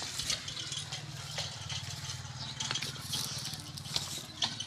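Diesel engine of a 1982 MTZ Belarus 510 tractor running at a steady idle, with a light rattle and scattered sharp clicks over it.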